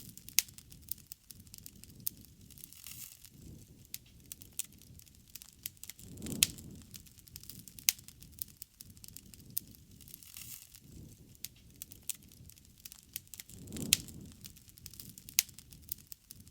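Wood fire crackling, with frequent sharp pops and snaps and a low rushing swell every few seconds.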